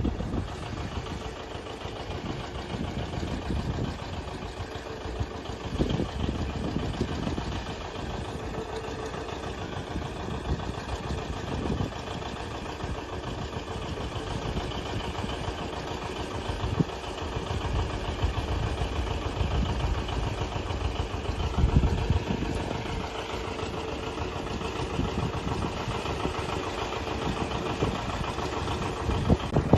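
A tractor engine running steadily at a low, even speed, with irregular low thumps through it.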